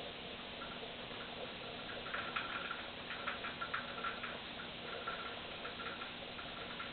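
Quaker parrot making quick, repeated clicking and chirping noises, several a second, picking up about two seconds in.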